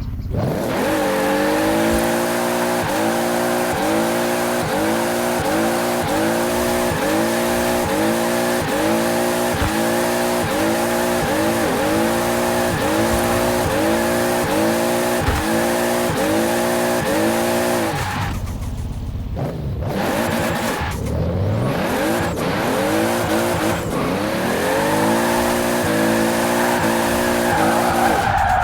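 Toyota Supra RZ's turbocharged 2JZ-GTE straight-six, fitted with a large single turbo, held at high revs, its pitch surging up in short repeated sweeps about once every three-quarters of a second. Around two-thirds of the way through it breaks off, revs back up from low, and the surging resumes.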